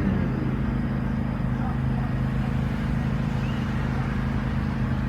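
Exmark lawn mower engine running at a steady speed, a constant low drone.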